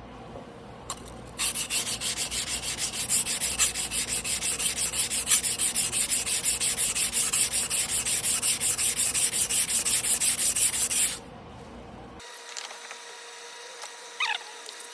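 A yanagiba sashimi knife blade being stroked by hand back and forth on a whetstone: an even, rhythmic scraping of several quick strokes a second. It starts about a second and a half in and stops about eleven seconds in.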